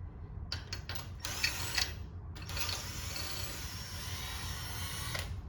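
Ratchet clicking as the LS 5.3 V8 is turned over by hand for a piston-to-valve clearance check: a few separate clicks, then a steady run of rapid ratcheting for about three seconds.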